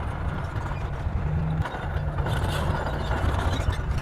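Bulldozer at work: its diesel engine running steadily under load, with mechanical clanking and rattling from the machine.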